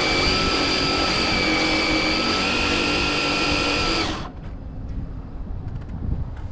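Electric motor of an RC drag car at full throttle: a high whine that has just risen in pitch holds steady, then cuts off suddenly about four seconds in.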